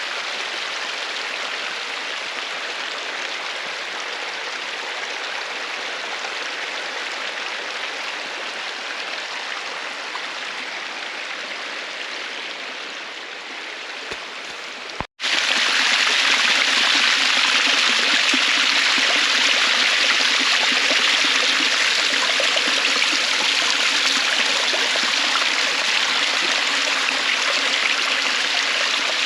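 Flowing water rushing steadily. About halfway through it breaks off for an instant and resumes louder.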